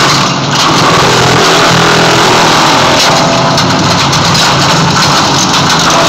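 Engine-driven wood chipper running loudly and steadily, with a brief dip about half a second in.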